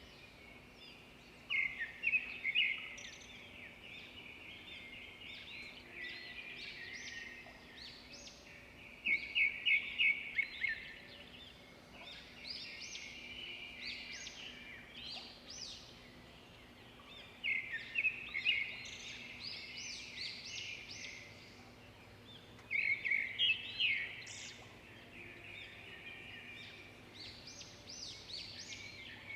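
Birds singing: a loud phrase of rapid, high notes comes four times, about every seven seconds, with softer chirping in between.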